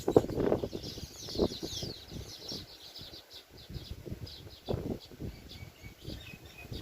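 Baya weaver birds chirping and chattering with many short high notes, including a quick run of sweeping notes about a second in. Low thumps and rustles come just after the start, again about a second and a half in, and near the five-second mark.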